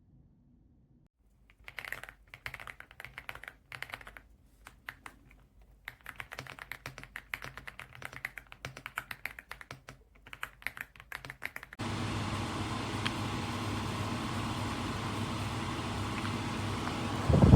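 Typing on an EPOMAKER x Aula F99 mechanical keyboard: quick runs of key clicks with short pauses. About twelve seconds in, this cuts off and a steady rushing noise with a low hum takes over, with a short louder burst near the end.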